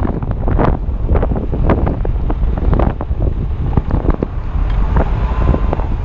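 Strong wind buffeting the GoPro Hero 2's microphone: a loud, irregular low rumble broken by constant crackling gust hits.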